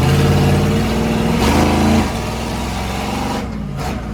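Full-size monster truck engine running hard as the truck pulls away on a ride-along, then easing off about two seconds in.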